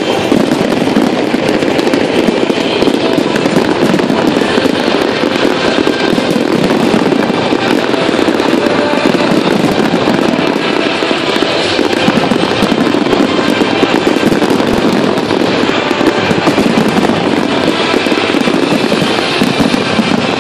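Fireworks display in a dense, unbroken barrage: rapid overlapping bursts and crackling with no pauses, and music playing under it.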